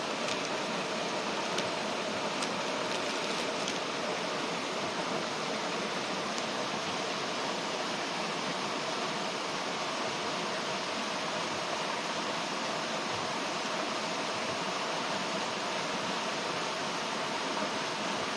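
Steady rush of a gorge stream, with a few faint crackles from a wood fire near the start.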